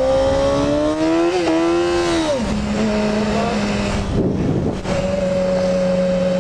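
Yamaha R6 inline-four motorcycle engine under way: its pitch climbs steadily for about two seconds, drops sharply, then holds steady.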